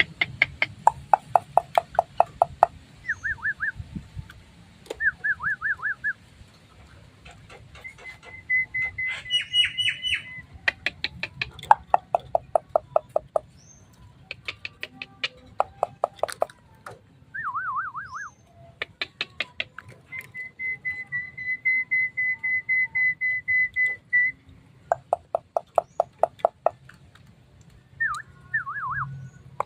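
Javan myna singing: runs of rapid repeated chattering notes, wavering trills, and a few long steady whistles, one lasting several seconds near the middle.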